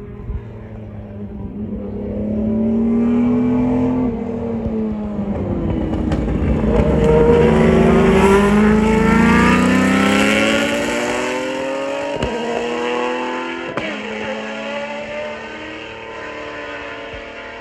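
Formula One racing car approaching and passing at speed, its engine note climbing and dropping through several gear changes, loudest around the middle, then fading away. Two short sharp cracks come later on as the car moves off.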